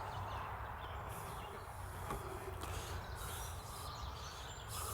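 Quiet outdoor background: a steady low rumble with faint, scattered bird chirps.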